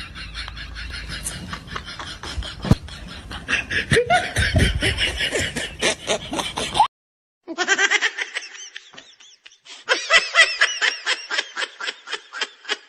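Laughter in quick repeated ha-ha pulses that cuts off suddenly about seven seconds in. After a brief gap, a second stretch of laughter follows.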